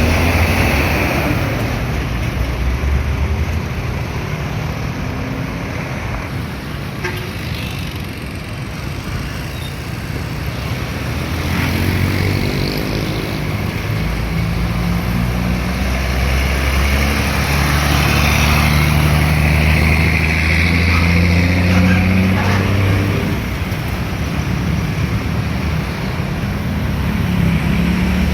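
Heavy road traffic with trucks passing close by. One large truck's engine drone rises in pitch about twelve seconds in, is loudest over the following ten seconds, then fades.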